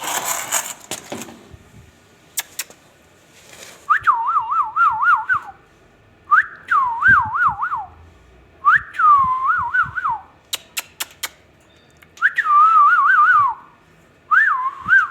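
Five short whistled phrases, each a quick rising note followed by a fast warbling wobble, repeated every couple of seconds. A brief noisy rustle opens the stretch, with a few sharp clicks between phrases.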